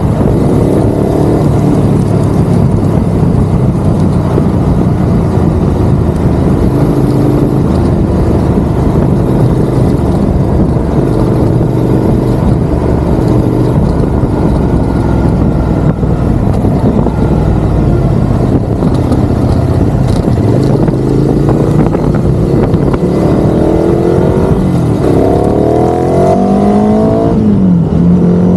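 Ducati Monster's L-twin engine running while riding, over a steady rush of wind noise. In the last several seconds it revs up through the gears, the pitch rising and then dropping at each shift.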